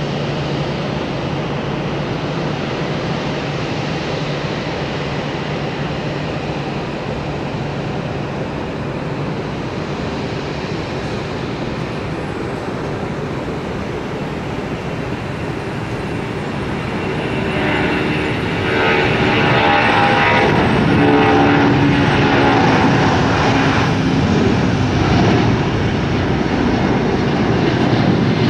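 Jet airliner engines heard across the airfield, a steady rumble that grows louder about two-thirds of the way through, with a whining tone, as a jet passes close on the runway.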